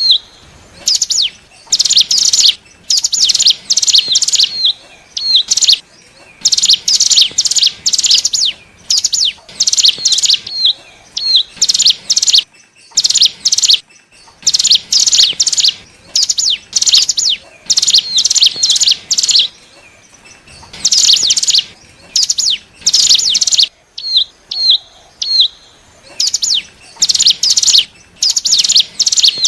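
Ciblek gunung (hill prinia) singing loudly and repeatedly, used as a lure call for wild birds of its kind. It gives phrases of rapid, high, buzzy notes about one to two seconds long, with brief pauses filled by a few short hooked chips.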